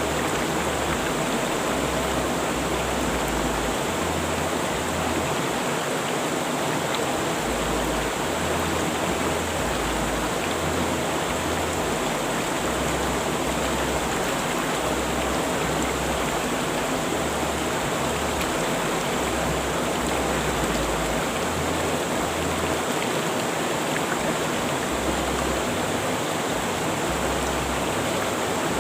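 Rushing river water, a steady full rush of flowing water.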